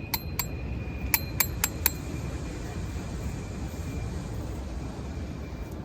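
Hard metal or glass items clinking together about seven times in the first two seconds, each strike leaving a ringing note that dies away slowly. Underneath is a steady low rumble of surf and wind.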